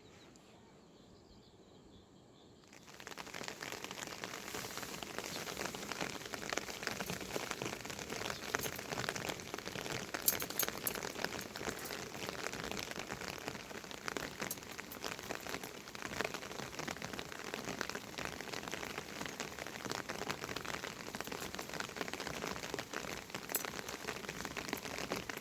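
Steady rainfall, a dense patter of drops hitting a surface, which starts suddenly about three seconds in after a quiet opening.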